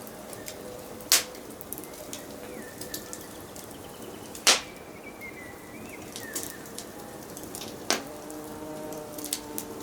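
Wood fire crackling: a steady hiss with many small snaps and three loud pops. Faint forest birdsong of a few short whistled notes sounds behind it around the middle.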